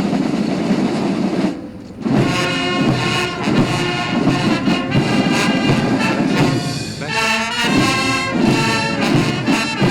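Military brass band playing: a held opening, then brass melody from about two seconds in.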